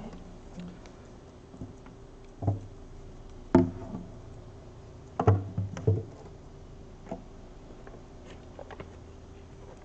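A few scattered knocks and bumps, as of objects being handled and set down, over a faint steady hum. The loudest knock comes about three and a half seconds in, and a quick cluster follows about two seconds later.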